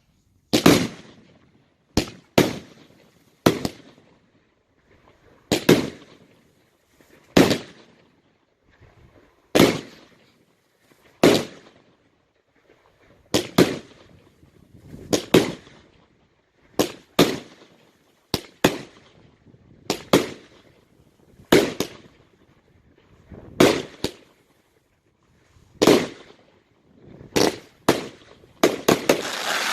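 Aerial fireworks bursting: a series of sharp bangs every one to two seconds, each trailing off in a short echo, with a quicker flurry of bangs near the end.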